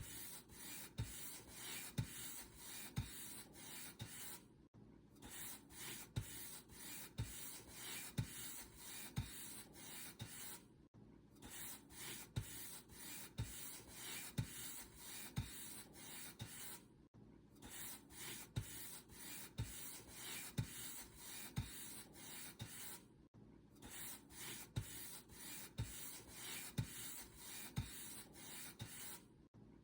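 Paint brush strokes: bristles scraping back and forth over a surface, with a soft low knock about once a second. Short silent breaks come about every six seconds, where the sound repeats as a loop.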